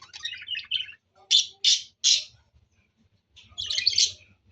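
Small pet birds calling: a rapid run of high chirps, then three loud harsh squawks in quick succession, and another burst of chattering calls near the end.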